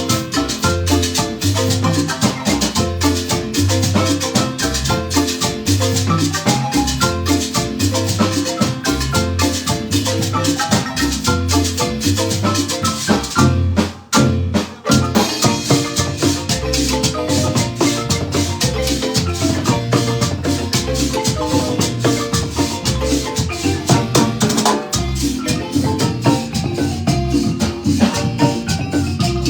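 Marimba ensemble playing a rhythmic dance piece, rapid mallet notes over a steady pulsing bass line. The music drops out briefly about halfway through, then resumes.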